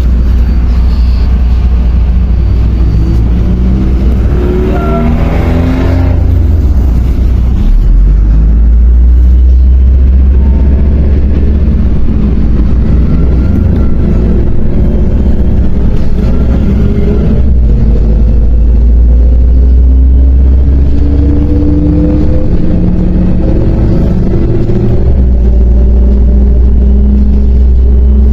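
MAZ 105.065 articulated city bus's diesel engine, heard from inside the passenger cabin, pulling the bus along with a heavy low rumble. The engine note climbs several times as the bus accelerates.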